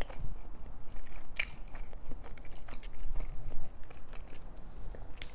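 A person chewing food close to the microphone: a run of small wet mouth clicks, with one sharper, louder click about a second and a half in.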